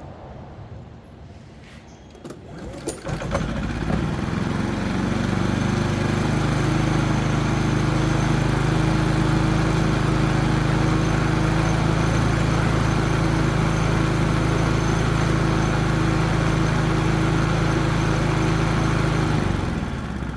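Predator 3500 generator's single-cylinder engine starting about three seconds in, then running steadily on choke. It cuts out near the end as the choke is taken off: the engine will only run on choke, which could mean a plugged main jet or emulsion tube.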